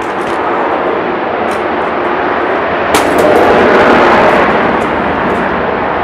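Aircraft passing overhead: a loud, even roar that swells about three seconds in, after a sharp click, and eases off toward the end.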